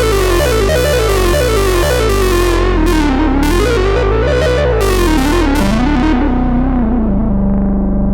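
A 2022 reissue Minimoog analog synthesizer plays a gliding, wavering lead line over steady low bass notes. From about a third of the way in, the filter opens and closes in a few quick pulses. It then closes down gradually, so the tone grows darker and ends on a held low note.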